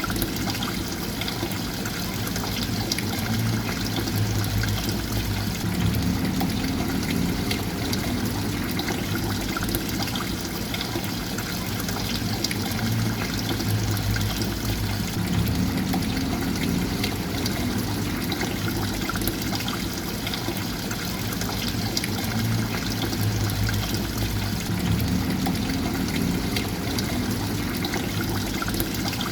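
Steady flowing, trickling water, with a low swell that recurs about every nine to ten seconds.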